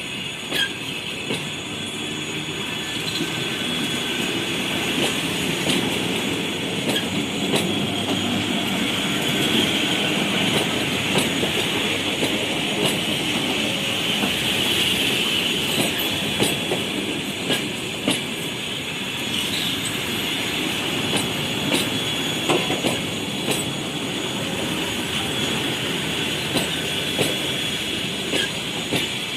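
ED9E electric multiple unit train running on the rails: a steady rumble with a high wheel squeal held throughout, and the wheels knocking over rail joints again and again.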